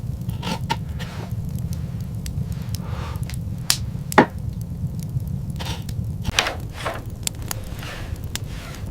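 A steady low rumble with irregular sharp knocks and clicks and a few brief swishes over it. One knock about four seconds in is louder than the rest.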